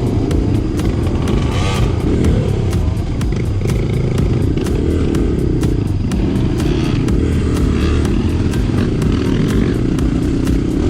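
Dirt bike engine running steadily under way.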